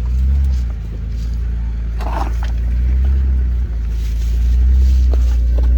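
Four-wheel-drive vehicle's engine running at low revs off-road, swelling louder shortly after the start and again near the end, with a brief knock just before four seconds in.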